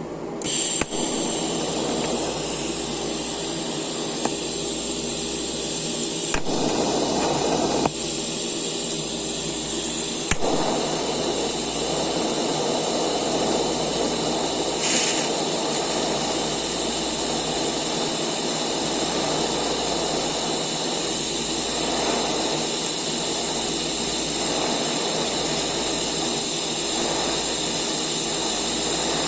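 Eastwood TIG 200 welder arc struck about half a second in, then burning steadily on steel with an even hiss and a high, steady whine as a bead is laid with ER70S-2 filler rod. A steady low machine hum runs underneath.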